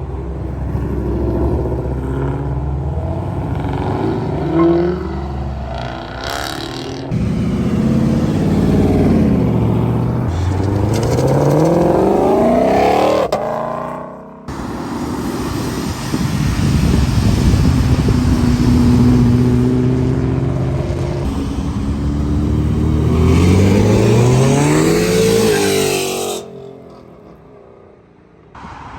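Car engines running loud and revving hard, the pitch climbing steeply twice as a car accelerates, once about halfway through and again near the end, with a sudden break between; the sound falls away to a quieter background near the end.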